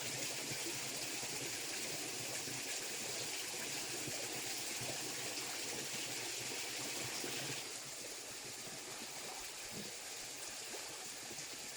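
Steady rush of running water, dropping slightly in level about eight seconds in.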